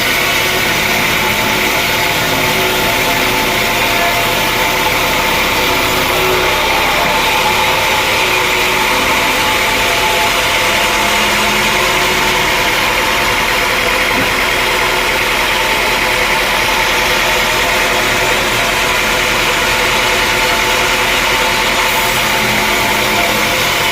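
Sawmill machinery running steadily: a constant, loud machine drone with a few fixed tones and no change in pitch or level.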